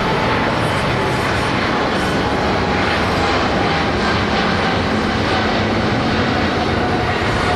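Jet airliner engines at takeoff power: a loud, steady roar with faint whining tones that slowly fall in pitch.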